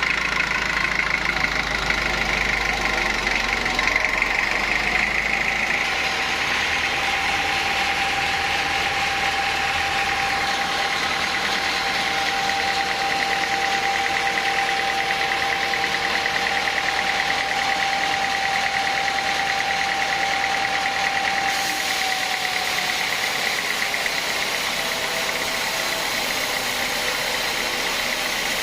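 Sawmill machinery running steadily. A held whine comes in after about six seconds, then dips slightly in pitch and fades about three quarters of the way through.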